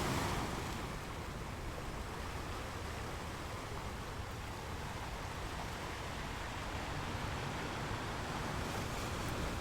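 Ocean waves washing on a beach: a steady wash of surf that swells briefly at the start, then eases off and stays even.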